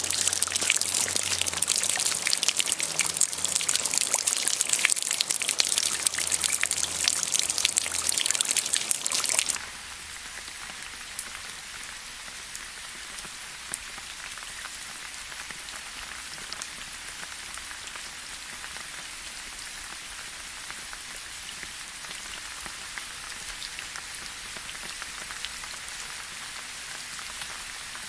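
Rain falling, at first a loud, dense patter of close drops crackling on a surface. About ten seconds in it cuts abruptly to a softer, steady rain hiss.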